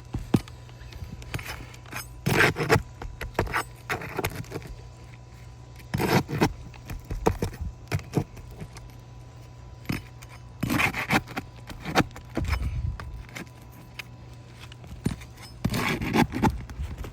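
Roof snake, a metal shingle-repair bar, scraping and clinking against roofing shingles while it is worked under a wind-damaged shingle. It comes in short irregular spells of scraping and metallic rattling, the strongest about two, six, eleven and sixteen seconds in, over a steady low hum.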